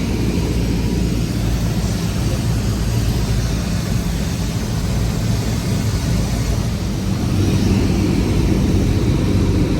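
Cessna 172's propeller engine droning steadily, a little louder in the last couple of seconds.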